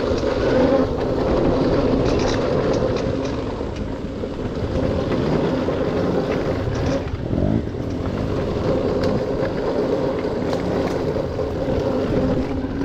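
Dirt bike engine running steadily on the trail, its pitch easing and picking up briefly a few times with the throttle.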